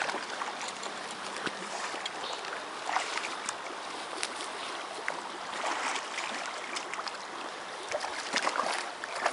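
River water running steadily, with scattered faint ticks and small splashes.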